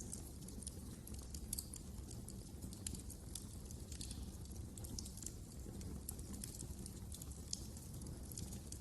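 Wood fire crackling: irregular sharp snaps and pops, several a second, over a low steady rumble of flames.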